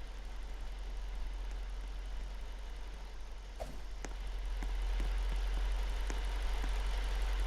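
Truck engine idling with a deep, steady rumble that grows louder about five seconds in.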